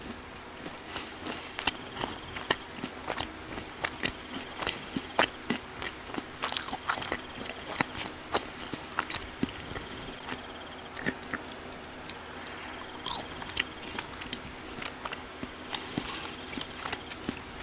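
Close-up chewing and biting of crispy fried fast food, with many irregular sharp crunches and crackles, several a second.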